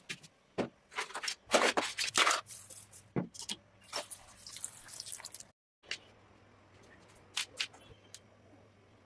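Hand work on a toy model car: a quick run of short scrapes and rubs, then, after a brief cut, a few sharp clicks.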